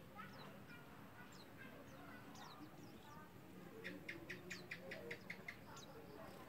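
A group of white-eyes (pleci) chirping faintly with short, high, falling calls. About two thirds of the way through comes a quick run of about ten sharp chirps.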